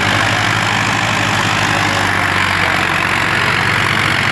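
Diesel tractor engine running steadily with an even, rapid chug.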